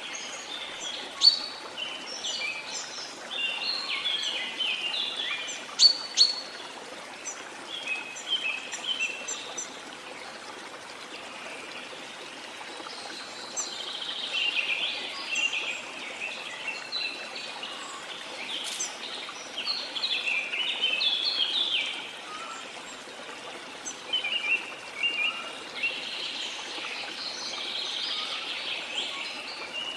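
Several birds chirping and calling in quick, overlapping phrases over a steady rush of falling water. Two sharp, louder clicks stand out, about a second in and again around six seconds in.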